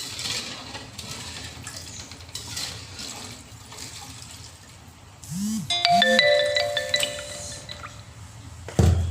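A short electronic chime of a few bright ringing notes, like a phone ringtone or notification, sounds about halfway through over faint kitchen noise. A heavy thump comes near the end.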